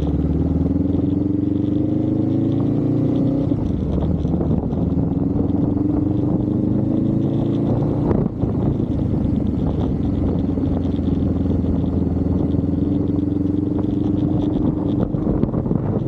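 Vehicle engine accelerating through the gears: its pitch climbs steadily, drops back at each shift, and climbs again, with a brief knock about halfway through.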